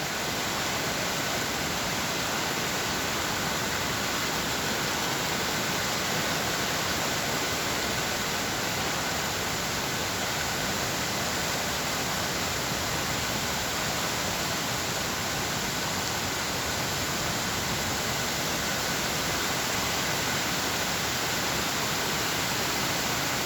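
Rain floodwater rushing in a flash-flood torrent, a steady, unbroken rush of water.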